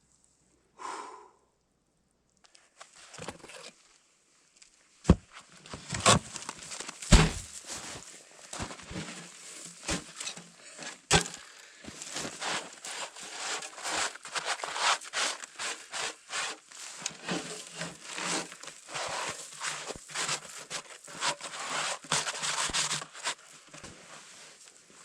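Irregular crunching and rustling with many scattered sharp knocks, the loudest a few seconds in, like close handling or movement on snow and ice.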